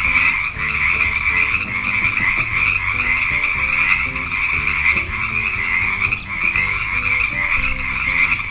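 Frogs croaking in a dense, continuous chorus.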